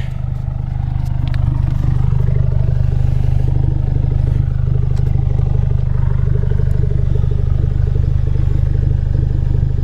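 Ford Focus RS 2.3-litre turbocharged four-cylinder idling steadily through a muffler-delete exhaust, its muffler replaced by straight pipe. The exhaust gives a deep, even drone that grows a little louder about a second and a half in.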